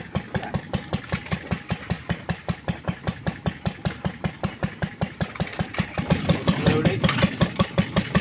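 Lister D single-cylinder engine running with an even, steady beat, growing louder about six seconds in.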